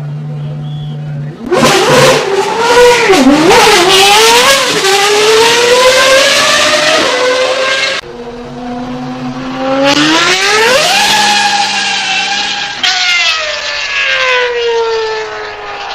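Racing car engine at high revs, its pitch climbing and dipping through gear changes. After a sudden cut about eight seconds in, a second run revs up steeply and then falls away in pitch.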